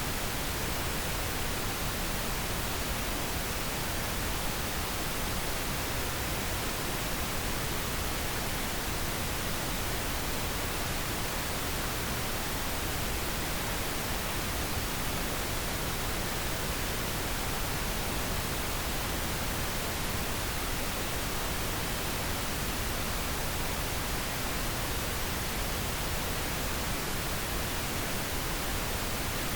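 Steady, unchanging pink noise, an even hiss spread across the whole range with no other sounds.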